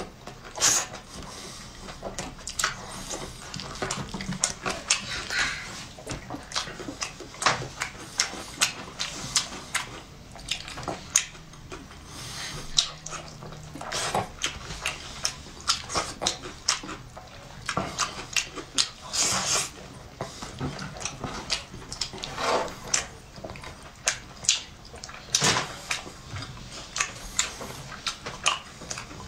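Close-up mukbang eating sounds: a man chewing saucy meat off the bone, smacking his lips and sucking sauce from his fingers, in irregular wet clicks and smacks.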